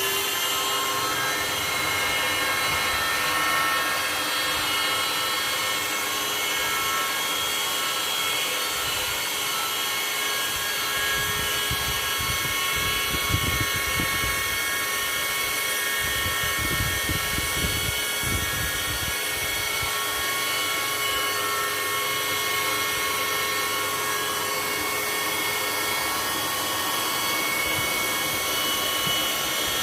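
An electric motor running at a steady speed: a whine of several steady high tones over a hiss, just after spinning up. Low rumbling comes and goes in the middle.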